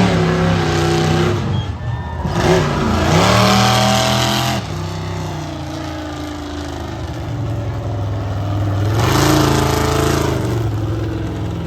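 Monster truck engines revving in three surges, their pitch rising and falling, with a lower steady running sound between.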